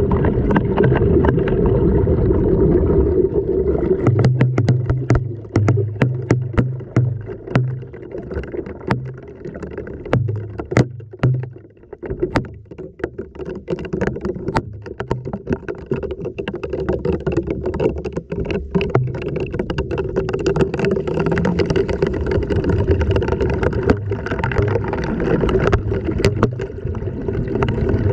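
LG washing machine running, heard from inside the drum: steady churning with a motor hum and rumble. From about four seconds in to about twelve seconds, the noise drops back and a run of sharp clicks and knocks comes through, then the steady churning returns.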